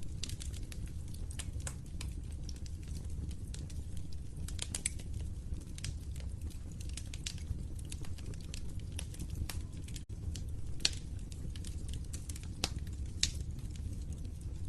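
Wood fire crackling, with scattered sharp pops over a steady low rumble of burning, the loudest pops about eleven and thirteen seconds in.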